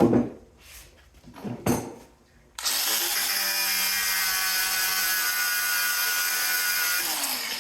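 A power tool's motor starts suddenly about two and a half seconds in, runs at a steady speed for about four and a half seconds, then winds down.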